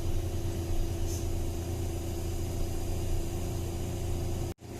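Truck engine running steadily on the move, a constant low hum with a steady mid tone over it. The sound cuts out for an instant near the end.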